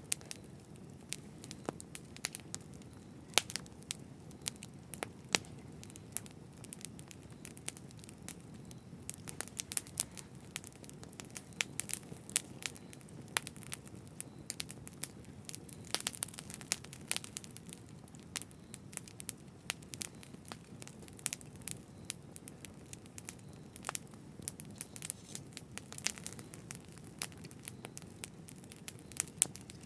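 Campfire crackling: irregular sharp pops and snaps over a soft, steady low rumble.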